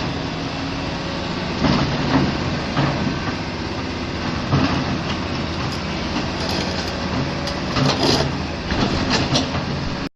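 A heavy engine runs steadily, broken by several loud crashing impacts every second or few: a refrigerator being smashed apart by heavy machinery.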